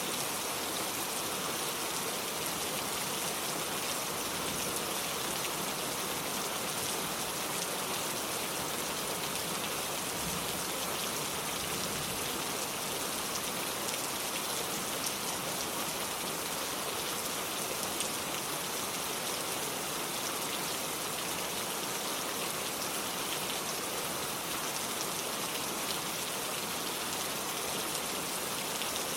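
Steady rain falling on hard surfaces, an even hiss with scattered drop ticks and patter.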